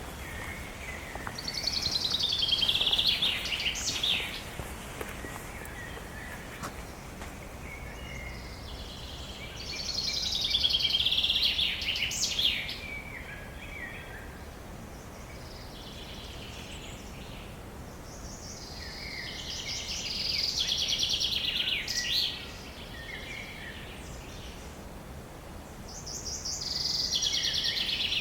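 A songbird singing the same song four times, about every eight seconds: each a fast high trill of about two and a half seconds that falls in pitch and ends in a short flourish. A steady low background hiss runs under it.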